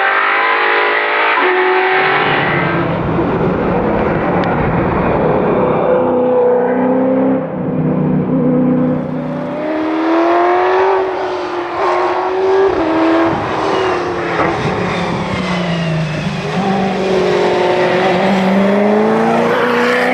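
1988 Giocattolo Group B's V8 engine at full throttle, heard onboard. The revs climb and fall repeatedly through gear changes and lifts for corners.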